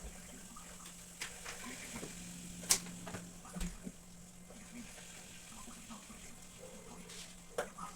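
Faint scattered clicks and light taps over a steady low hum, with one sharper click a little under three seconds in.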